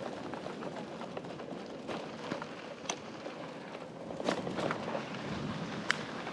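Bicycle in motion: steady rolling tyre noise with a faint steady hum, dotted with small clicks and ticks and a few sharper clicks.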